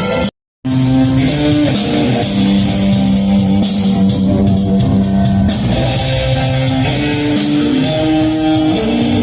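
Live rock band playing an instrumental passage, with guitars to the fore over a drum kit. The sound cuts out completely for about a third of a second near the start, then the music carries on.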